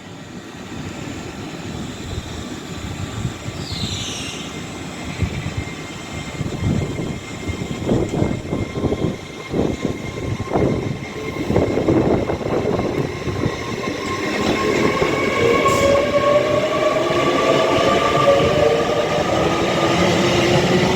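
Avanti West Coast Class 807 Evero electric train pulling away from the platform. A series of knocks from the wheels comes first, then a whine from the traction motors that climbs in pitch and grows louder as the train picks up speed.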